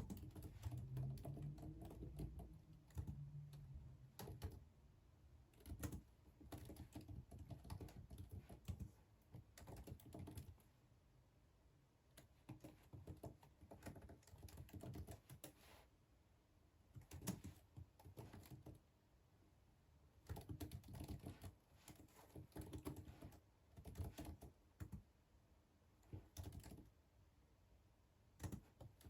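Computer keyboard typing, soft clicking keystrokes in bursts with short pauses between them.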